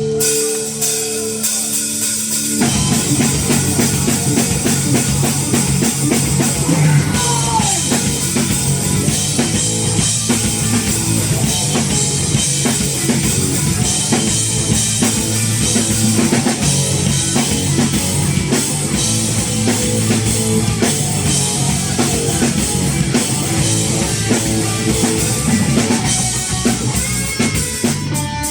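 Rock band playing live, instrumental: a few held notes open it, then drums, bass and guitar come in together about two and a half seconds in and keep a steady rock groove.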